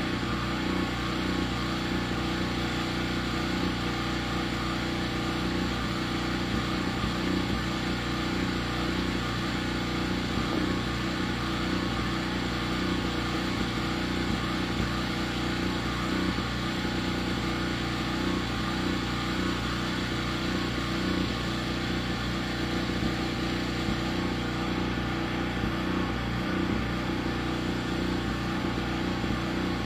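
An engine running steadily at one even speed, with no revving or pauses.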